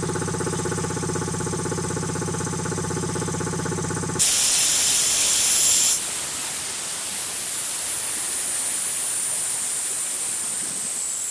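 Rebuilt Quincy QT-5 two-stage reciprocating air compressor running with a steady rhythmic pumping, then stopping abruptly about four seconds in. As it stops, compressed air blasts out in a loud hiss for about two seconds, then keeps hissing more quietly, slowly falling in pitch.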